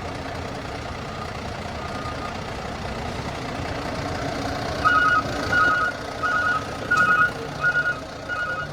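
Truck's reversing alarm beeping over its running engine: faint at first, then loud from about halfway through, steady beeps roughly every 0.7 seconds as the truck backs up.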